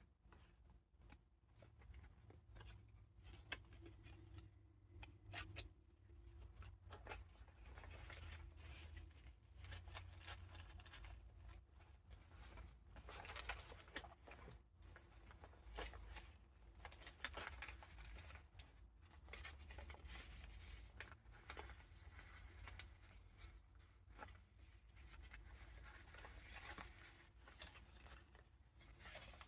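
Faint paper rustling, crinkling and soft taps as the pages and tucked-in vintage paper ephemera of a handmade junk journal are turned and handled.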